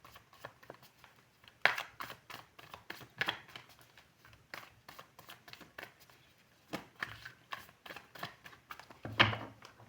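Tarot cards being handled: irregular soft flicks, taps and slaps of cards being shuffled and laid out, with a few sharper slaps along the way.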